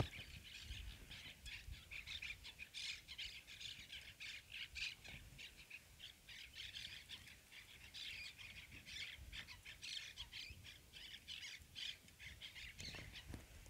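Faint chorus of birds chirping and calling, with many short high calls in quick, irregular succession.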